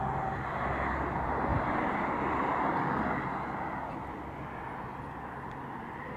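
A car passing by on a road, its tyre and engine noise swelling and then fading away.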